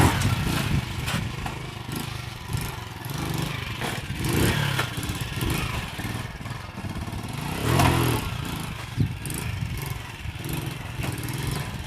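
Motorcycle engine running, revving up in surges roughly every four seconds between steadier running.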